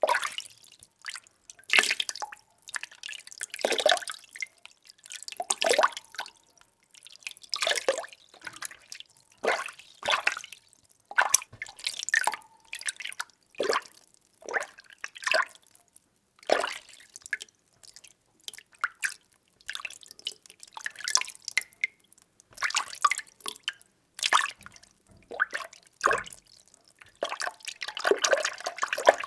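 Water being stirred by hand in a small container: irregular sloshes and splashes every second or two, each brief, with short quiet gaps between.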